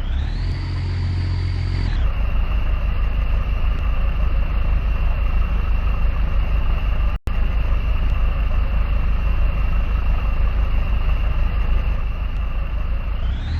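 Boat engine running steadily under a constant high whine. The whine rises in pitch right at the start, drops back after about two seconds, and climbs again near the end. The sound cuts out for an instant about seven seconds in.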